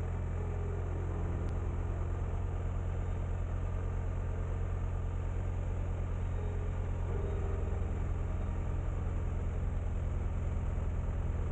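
Motorcycle engine running steadily while riding, a deep low hum that shifts slightly about seven seconds in.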